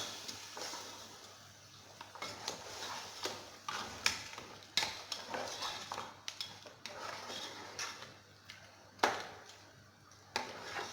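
A spoon stirring chicken and blended tomatoes in a cooking pot, with irregular clinks and knocks against the pot. The loudest knock comes about nine seconds in.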